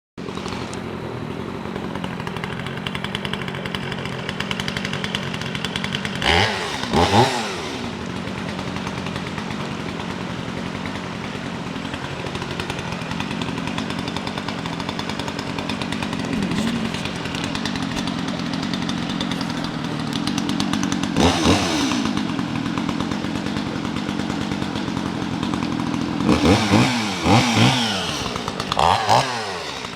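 Chainsaw engine running at a steady idle, revved up briefly and let fall back: once about six seconds in, again a little past twenty seconds, and several quick revs near the end.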